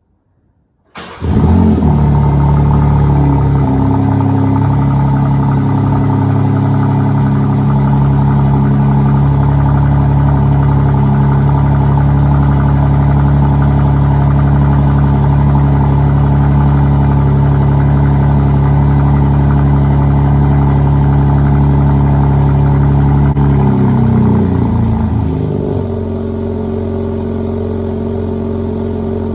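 BMW G80 M3's S58 twin-turbo inline-six starting cold about a second in, with a brief flare, then holding a steady, high cold-start fast idle. About 24 seconds in the revs drop and it settles to a lower, slightly quieter idle.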